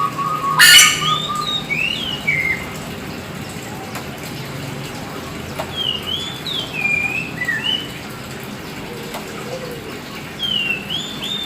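Oriental magpie-robin (black kacer) singing clear whistled phrases that slide up and down, in three bouts. A loud, sharp, harsh note comes less than a second in, over a steady buzzing tone that stops soon after.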